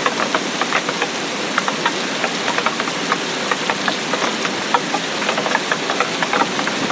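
Steady rain with many separate drops ticking irregularly over a constant hiss.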